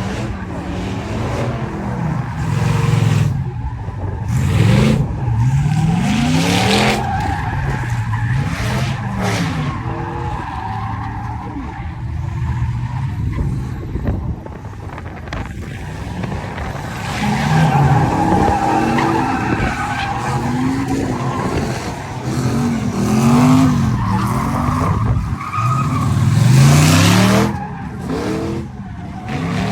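Vehicle engines revving hard, their pitch climbing and falling again and again, with bursts of tyres squealing and skidding on pavement.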